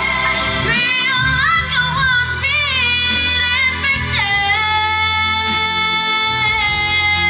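A young female singer with instrumental accompaniment sings wavering runs, then holds one long high note from about four seconds in.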